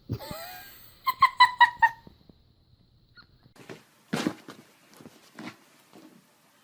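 An animal calling: a quick run of about six short, high chirping squeaks, followed by scattered light knocks and scuffling.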